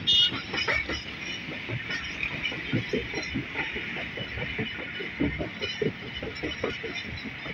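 Train running along the track, heard from a carriage: a steady rushing rolling noise with many irregular knocks and rattles.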